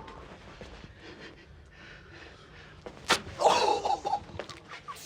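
An adhesive name tag is ripped off a person's chest: a sharp rip about three seconds in, followed at once by a brief, loud noisy burst.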